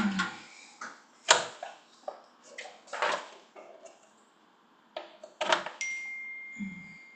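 Pages of a music book being turned and the book handled: several sharp rustles and knocks, each dying away quickly. A thin steady high tone starts near the end.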